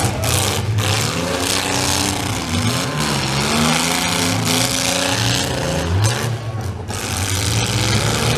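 Engines of several compact demolition-derby cars running and revving together, their pitches rising and falling.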